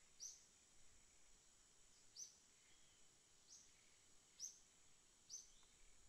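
Faint chirps of a small bird: a short, falling, high chirp repeated about five times at uneven intervals of roughly a second, over a faint steady high hiss.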